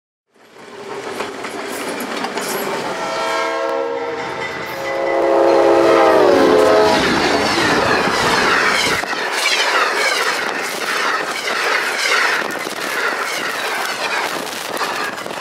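Passenger train passing at speed, sounding a multi-note air horn chord that drops in pitch as it goes by. The horn is followed by the rush and clickety-clack of the cars' wheels on the rails.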